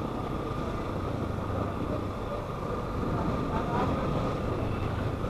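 Motorcycle running at a steady speed, its engine a low steady hum under even wind and road noise.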